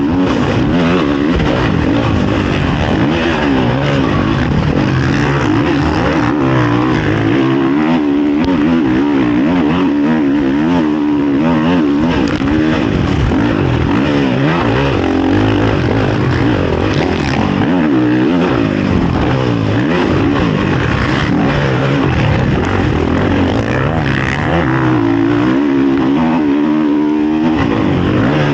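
Honda CRF450 motocross bike's single-cylinder four-stroke engine, heard on board, revving hard at racing pace with its pitch rising and falling constantly as the throttle opens and closes and the gears change.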